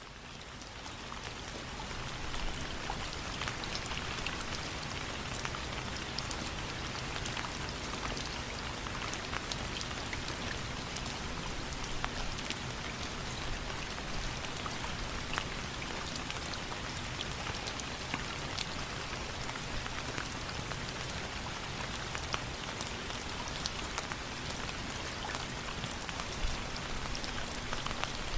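Steady rain, fading in over the first couple of seconds, with many scattered sharp crackles and ticks of a wood fire burning in a fireplace.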